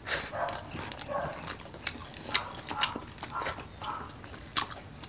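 Close-mouthed eating sounds: wet chewing and lip smacking, with irregular sharp clicks.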